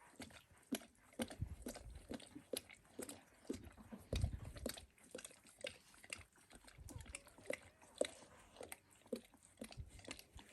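Quiet, irregular wet smacking and clicking mouth sounds from a Dalmatian and her 16-day-old puppies licking and suckling, with a few soft low thumps from the puppies shifting about.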